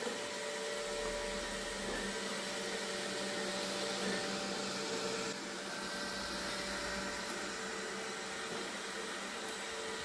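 Roborock S6 Max robot vacuum running across tiled floor: a steady whir of its suction fan and brushes with a few constant hum tones. Its sound shifts slightly about five seconds in.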